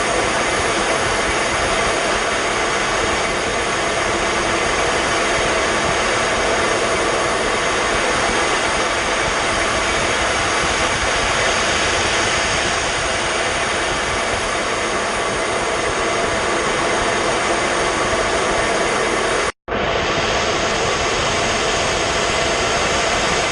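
Steady rushing noise of a jet aircraft in flight, even and unchanging, broken by a split-second silent gap near the end.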